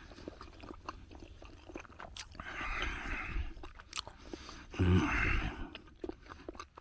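A person biting into and chewing a cold strawberry sandwich with condensed milk, close to the microphone: small clicks throughout, with two louder spells of chewing, about two and a half and about five seconds in.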